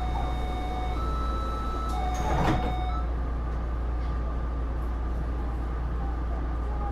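Inside a Taipei Metro C301 car: two door-closing warning tones, each about a second long, then the sliding doors shut with a knock about two and a half seconds in. The standing car's equipment hums steadily underneath.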